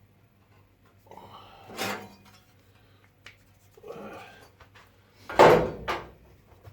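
Workshop handling noises: three short scraping, clattering sounds, the loudest about five and a half seconds in.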